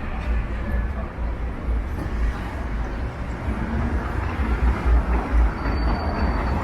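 Downtown city street traffic: a steady wash of passing vehicles with a deep, uneven rumble, swelling louder about two-thirds of the way through as traffic goes by. A brief, faint high tone sounds near the end.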